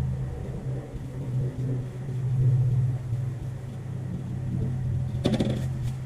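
A steady low hum of a running motor, with a brief clatter of clicks about five seconds in.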